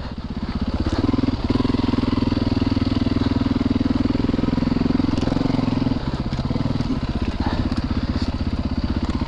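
Dirt bike's single-cylinder four-stroke engine running under throttle while riding: the revs pick up about a second in, hold steady, and ease off slightly around six seconds.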